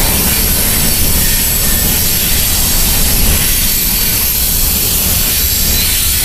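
Loaded coal cars of a freight train rolling past close by: a steady low rumble of steel wheels on rail with a high hiss, and thin high-pitched wheel squeal over it.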